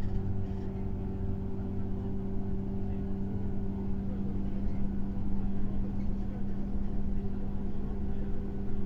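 Interior running sound of a JR West 103-series electric motor car: the MT55 traction motors and gearing give a steady hum at a constant pitch over the rumble of wheels on rail, as the train runs at a steady speed.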